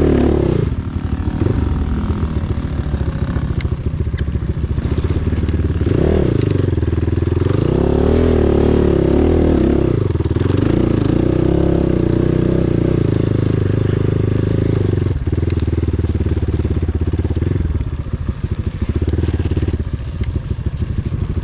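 Enduro motorcycle engine running under load, the revs rising and falling several times with throttle changes, then settling lower near the end.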